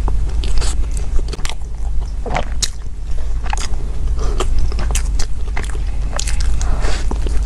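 Close-miked eating: bites into a soft dark bread bun filled with egg yolk, meat floss and taro paste, with chewing and many small sharp mouth clicks, over a steady low hum.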